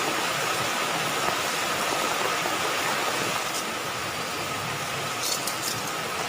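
Heavy rain falling steadily, a dense even hiss, with a faint steady high tone running through it and a few brief sharp ticks about five seconds in.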